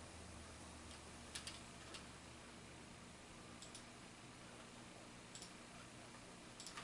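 Faint, slow, scattered keystrokes on a computer keyboard: about half a dozen single clicks a second or more apart, a few close together in pairs, over a low steady hum.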